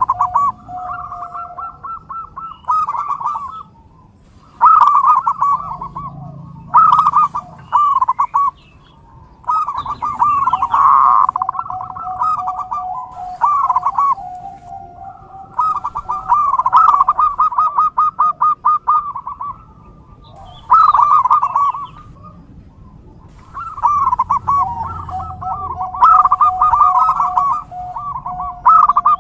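Zebra doves cooing: phrases of rapid, rolling, stuttering coos repeated every few seconds with short pauses between them. A lower, steadier note is held beneath several of the phrases.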